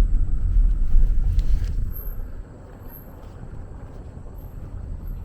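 Low, steady rumble of a moving vehicle on the road, which drops to a quieter level about two seconds in.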